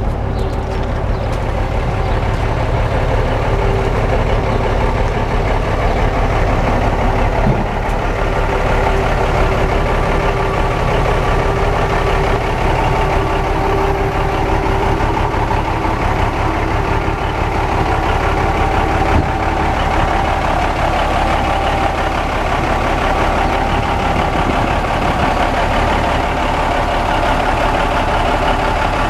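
The 1977 Ford 9000 tandem-axle grain truck's engine idling steadily.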